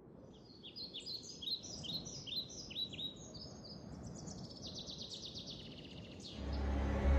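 Birds calling: a string of short rising chirps, then a fast rapid trill. About six seconds in, a loud low droning sound cuts in underneath.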